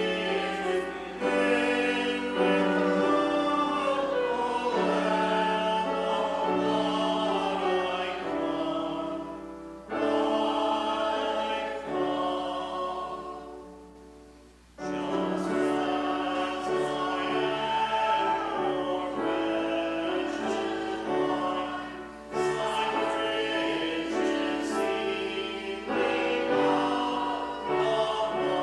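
Congregation singing a hymn in sustained, held notes, phrase by phrase, with a break between phrases about halfway through.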